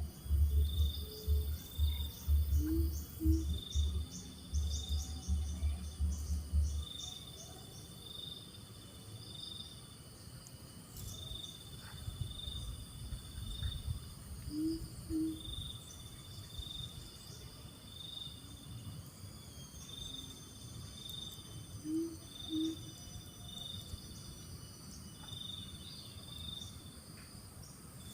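Coucal giving short, low double hoots, three times and several seconds apart, over a steady pulsing insect trill. Low thumping rumble runs through the first several seconds.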